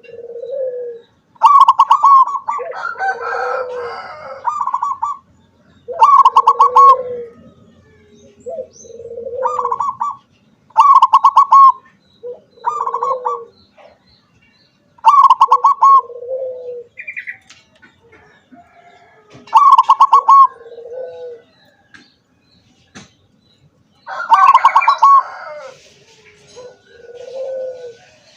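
Perkutut (zebra dove) singing: repeated cooing phrases, each a rapid stuttering higher note followed by a lower, drawn-out purring note, coming about every four to five seconds.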